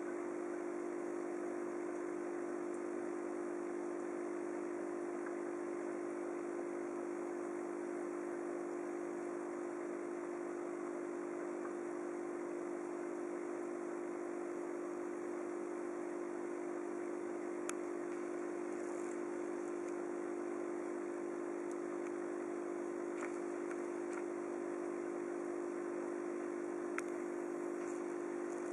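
Aquarium pump running with a steady, even hum over a hiss of moving water, with a few faint ticks near the end.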